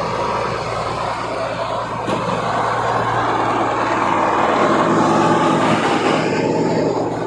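Mack truck's diesel engine running steadily, growing louder a few seconds in and easing off again near the end.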